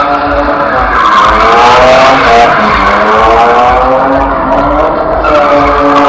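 Car engine revving up and down under hard throttle while its tyres squeal and skid in a drift.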